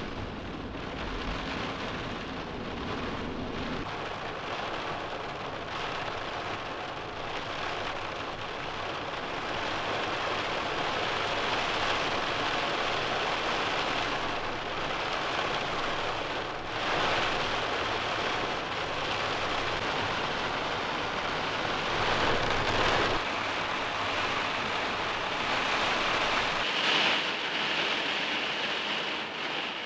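Steady rain falling, a continuous hiss with a few brief louder swells partway through and near the end.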